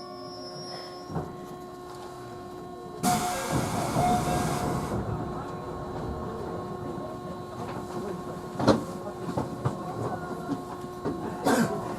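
Inside a JR Central 311 series electric train: a steady hum at first, then a sudden burst of compressed-air hiss about three seconds in lasting about two seconds. A rumble follows, with a few sharp clicks near the end.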